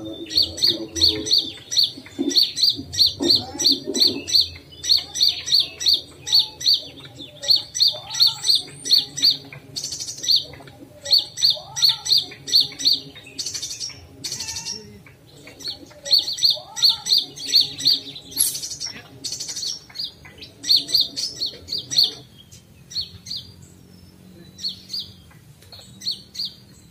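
Small birds chirping: quick runs of short, high chips, about ten a second, repeated burst after burst, with a few lower rising whistles in between; the chirping thins out for the last few seconds.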